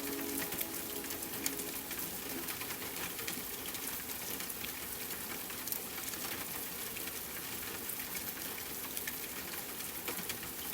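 Steady rain: an even hiss made of many fine drop ticks. Soft background music fades out about a second in.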